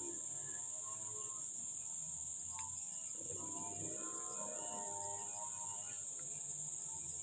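Steady, unbroken high-pitched insect trill, with soft background music under it that swells a little in the middle.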